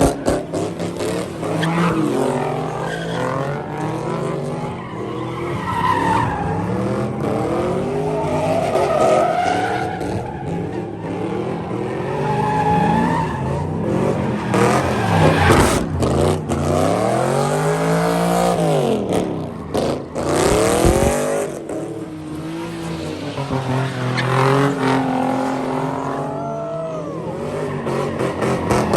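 A car engine revving hard, its pitch rising and falling over and over, with tyres squealing and skidding as the car drifts in a street sideshow.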